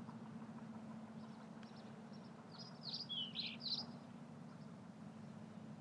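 A bird chirping a quick run of four or five sharp, high, falling notes about halfway through, over a faint steady low hum.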